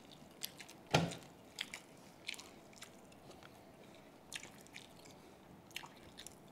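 Close-up eating sounds of boiled pork head: chewing with wet lip smacks and scattered sharp clicks, the loudest about a second in.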